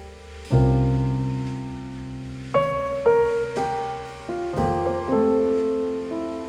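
Piano music played back through Visaton FR10 4-inch full-range drivers in small bass-reflex cabinets, heard through a room microphone. Notes and chords are struck every half second to a second, each ringing and fading.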